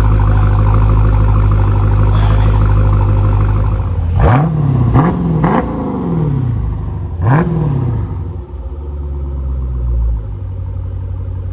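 Dodge Challenger Scat Pack's 392 HEMI V8 idling through newly fitted Vibrant 1794 mid mufflers, then blipped four times: three quick revs about four seconds in and one more a couple of seconds later. It then settles back to a steady idle.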